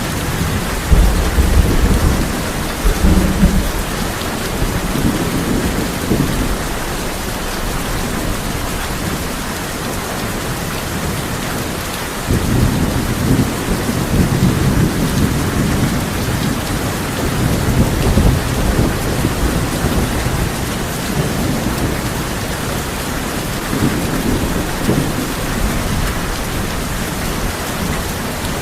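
Steady heavy rain drumming on a tin roof, with rolling thunder: low rumbles in the first few seconds, a longer one beginning about twelve seconds in, and a smaller one later.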